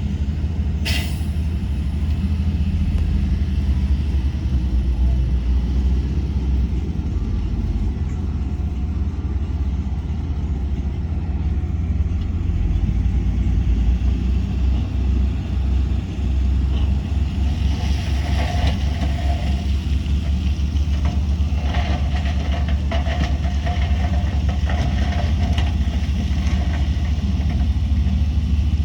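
Heavy diesel engine of earth-moving machinery running steadily at a low pitch, with a brief sharp hiss about a second in and rattling and clanking from about two-thirds of the way through.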